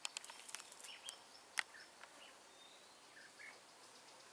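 A few faint, short bird chirps among tree foliage, with several sharp clicks in the first second and a half, the loudest about one and a half seconds in.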